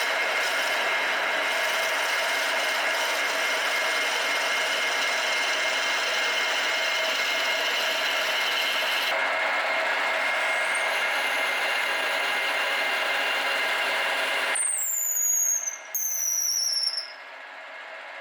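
Power tool running steadily with a high squeal, then cutting off about three-quarters of the way in. Two short falling whines follow, about a second apart.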